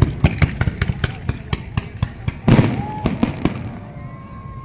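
Aerial fireworks going off: rapid crackling cracks, a heavy boom about two and a half seconds in, then more cracks, with a thin high tone near the end.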